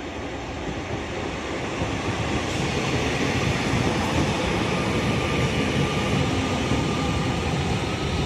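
Northern Class 331 electric multiple unit running into the platform and slowing to a stop, its running noise growing louder over the first few seconds as it draws alongside.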